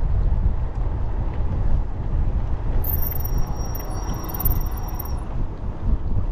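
Low rumble of wind buffeting the microphone and road noise while riding a bicycle, with a thin steady high whine for about two seconds in the middle.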